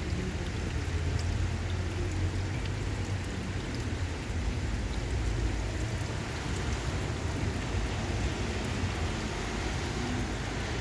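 Steady rain from a thunderstorm, a constant hiss with scattered drops ticking close by.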